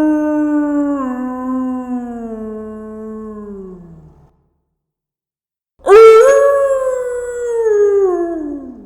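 Jackal howling: one long howl sliding slowly down in pitch, a break of about a second and a half, then a second howl that starts abruptly, loud, and falls away.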